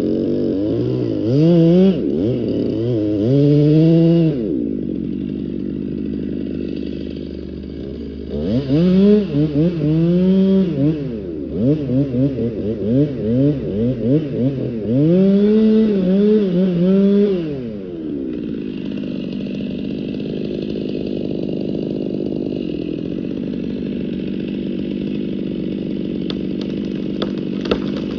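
Stihl chainsaw engine revving up and down repeatedly, its pitch climbing and falling in a run of short surges, then settling to a steady idle for the last third.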